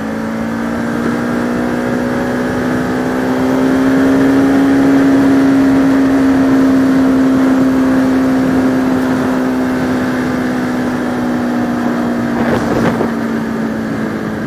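Bajaj Pulsar RS200 motorcycle engine pulling at steady riding revs, its note climbing a little over the first few seconds and then easing back. A short burst of noise cuts across it near the end.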